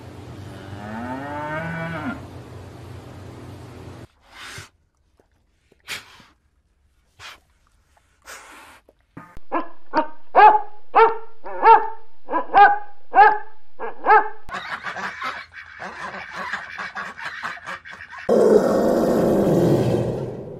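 A cow moos with a rising call early on, then a dog barks about ten times at roughly two barks a second. After a noisy stretch, a young elephant gives a loud low call that falls in pitch near the end.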